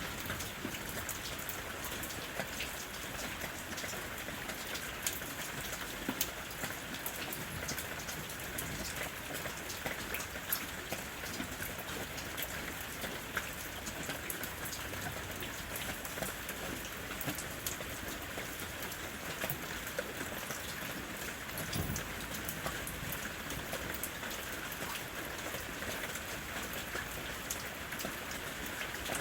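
Steady rain falling, with many separate drop hits ticking through the even hiss.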